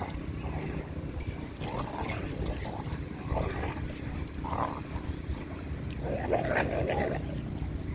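Dogs vocalizing during rough play: several short growl-like calls, with a longer run of them about six to seven seconds in, over a steady low rumble.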